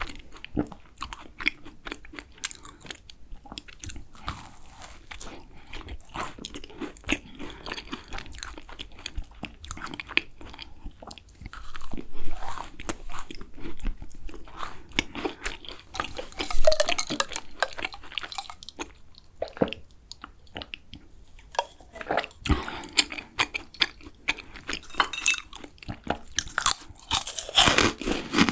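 Close-miked eating of macarons: repeated crunchy bites and chewing, with a few louder crunches along the way.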